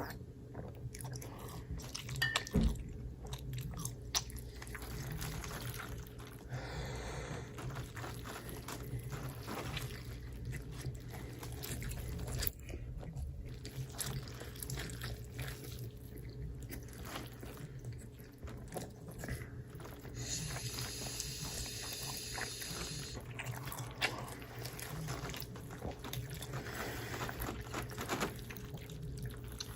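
Close-miked eating sounds: chewing and biting with scattered wet clicks, over a steady low hum, with a brief hissing or rustling patch a little after two-thirds of the way through.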